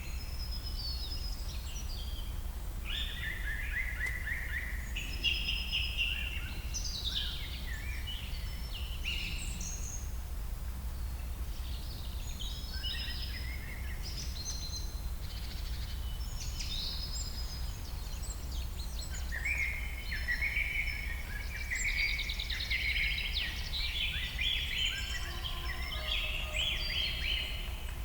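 Several birds singing and chirping in quick, overlapping trills and twitters over a steady low background rumble. A few longer, lower held notes join in near the end.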